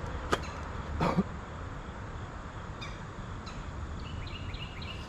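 Two sharp clicks under a second apart over a low outdoor rumble, then a bird chirping a quick run of short notes near the end.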